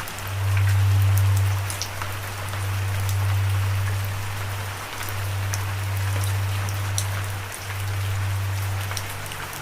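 Steady rain falling, with many small drop ticks, over a low, held musical drone note that fades and swells again a couple of times.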